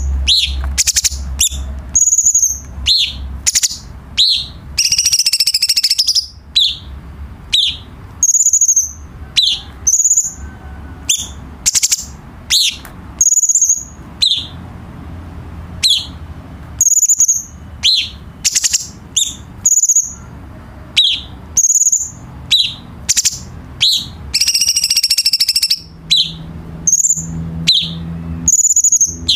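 Cucak cungkok singing: a steady stream of short, high chirps and quick down-slurred whistles, about two a second, broken twice, about 5 and 25 seconds in, by a longer buzzy trill. A faint low hum runs underneath.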